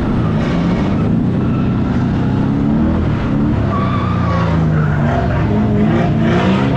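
Car engine revving up and down hard under load while the tyres squeal and skid, with a short high tyre squeal about four seconds in.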